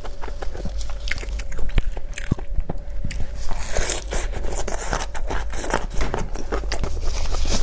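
Close-miked biting and chewing of crunchy food: a steady run of sharp crunches and small wet clicks, thickest a little past the middle.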